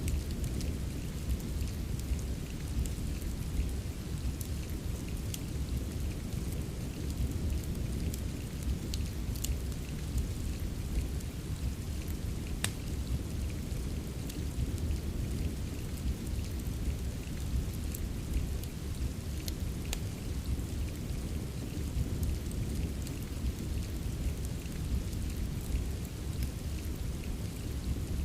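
Steady soft rain over a constant low rumble, with scattered sharp crackles from a fireplace.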